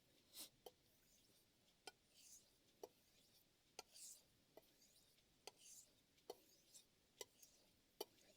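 Chef knife blade being worked on a Shapton ceramic 5000-grit whetstone, faint. It gives a sharp click about once a second, with short hissing scrapes between some of the clicks.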